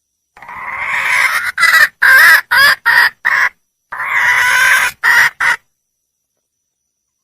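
Red junglefowl hen calling: a long call swelling in loudness, then a quick run of short clucking notes, a brief pause, another long call and two short notes.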